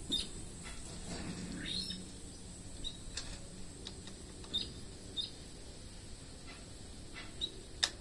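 Small birds chirping: scattered short high chirps and a few quick falling calls. A single sharp click comes just before the end.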